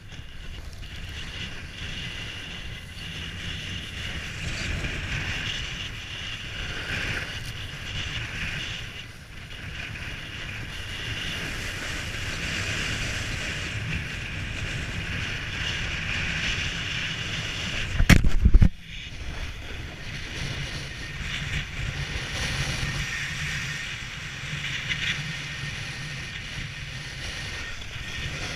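Strong wind buffeting the microphone during a downhill run, a steady rumble with a hiss over it. There is a single loud blast about 18 seconds in.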